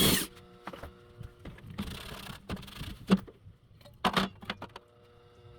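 A power drill cuts off at the very start. Then come scattered sharp clicks and knocks, loudest about three and four seconds in, and a short scrape about two seconds in, as tools are handled during the repair work.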